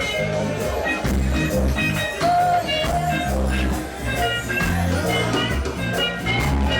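Live reggae band playing, with a deep bass line and drums under melodic instrument lines.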